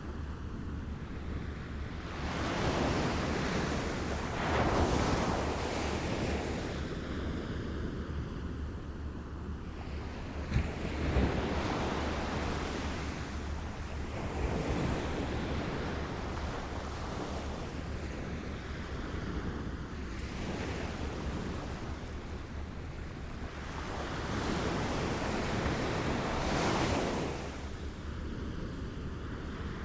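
Small waves lapping at the shore, the wash of water swelling and falling back every few seconds, with a sharper splash about ten seconds in. A low steady rumble runs underneath.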